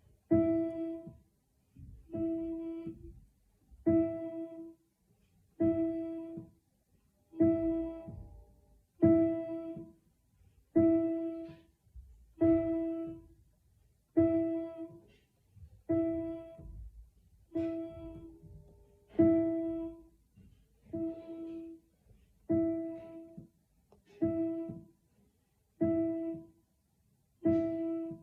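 A single piano note struck over and over at an even pace, about once every second and a half to two seconds, each strike ringing and dying away before the next.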